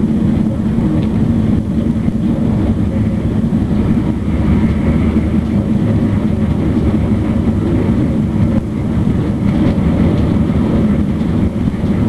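Class 458 'Juniper' electric multiple unit running, heard from inside the carriage: a steady, loud, low rumble of the wheels on the track.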